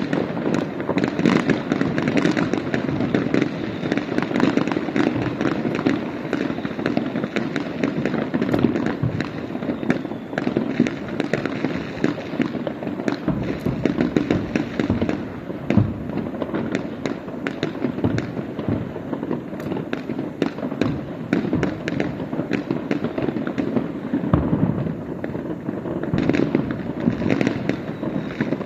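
Aerial firework shells bursting in quick succession: a continuous rumble of booms with many sharp cracks and crackles.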